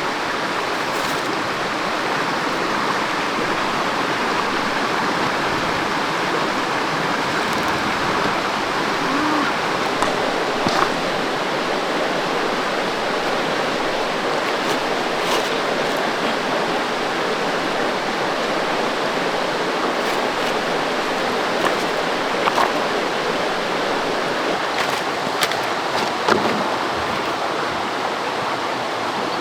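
Steady rushing noise like running water, with a few faint clicks and knocks.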